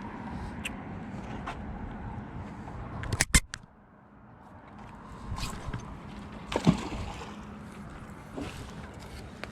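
Steady outdoor rushing noise, broken by a quick cluster of sharp knocks about three seconds in and a single knock near seven seconds.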